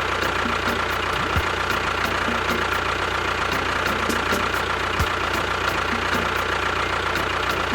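An engine running steadily at idle, with a light regular ticking about two or three times a second.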